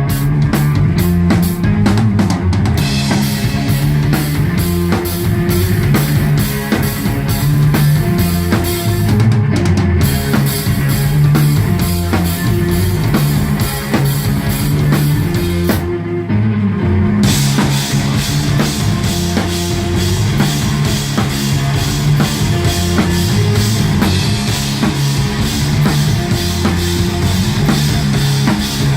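Live instrumental rock band playing a heavy, repeating riff on bass and electric guitar over a drum kit with constant cymbal strikes. The cymbals drop out briefly twice, about nine and sixteen seconds in.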